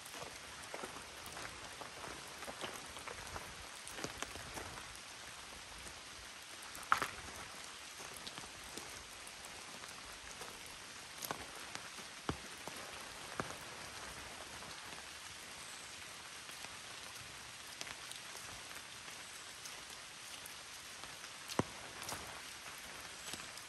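Rain falling in woodland: a steady hiss with scattered louder single drops, the sharpest about seven seconds in.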